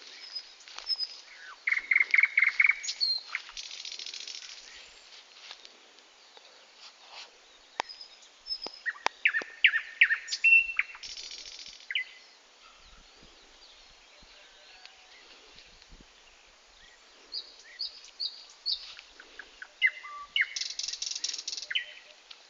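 Songbirds singing in three bouts, each a quick run of repeated notes followed by a short, high, buzzy trill.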